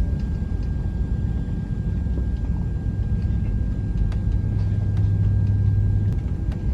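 Steady low rumble inside the cabin of an Airbus A330-300 airliner. A low hum grows louder about halfway through and drops back near the end, with a faint steady high tone and a few light ticks.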